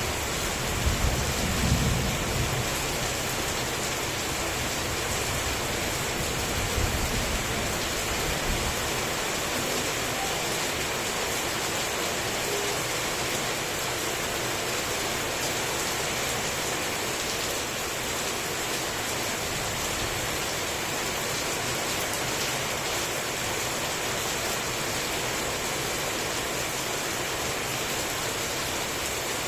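Heavy rain falling steadily, with low rumbles of thunder about a second in and again around seven to eight seconds in.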